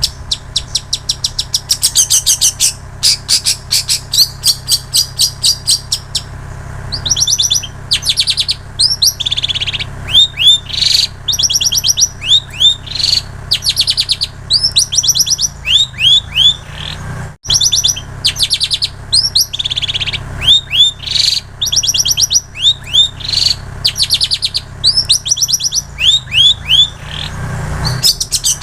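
Long-tailed shrike (cendet) singing continuously in fast runs of high, rapidly repeated notes and trills, a mimicked repertoire of ciblek sawah (prinia) and canary song.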